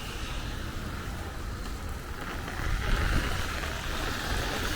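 Storm wind buffeting the microphone in a low rumble over the steady hiss of heavy rain, with a stronger gust a little past halfway through.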